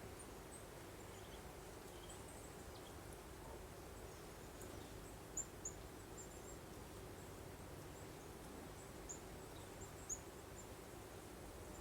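Faint steady breeze noise with small, high, short bird chirps scattered through it, a few slightly louder ones about halfway and again near the end.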